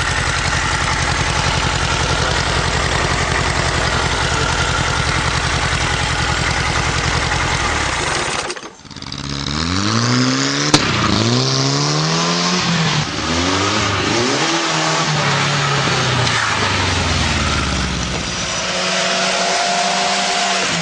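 Engine of a motorcycle built from a VAZ-2108 running steadily. After a sudden break about eight and a half seconds in, it is revved up and down several times, with a sharp click in the middle of the revs. It settles to a steadier run near the end.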